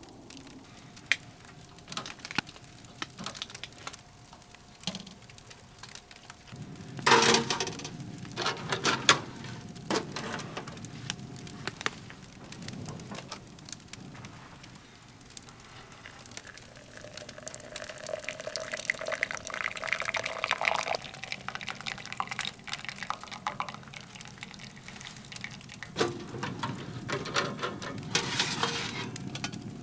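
Liquid being poured for several seconds, stopping suddenly about two-thirds of the way through, among scattered sharp clicks and crackles. A few louder rushing bursts come about a quarter of the way in and again near the end.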